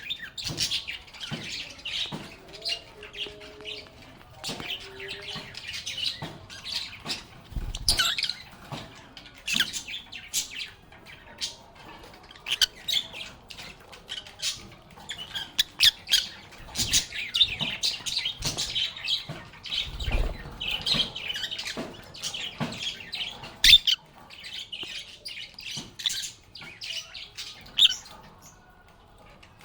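Several lovebirds chirping and squawking in rapid, almost continuous chatter, with sharp high calls, pausing briefly near the end.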